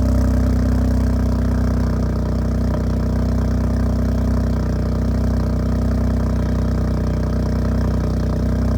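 Ford Focus 1.0 EcoBoost three-cylinder turbo engine idling steadily from a cold start, breathing through a decat downpipe and straight pipe into a Cherry Bomb muffler.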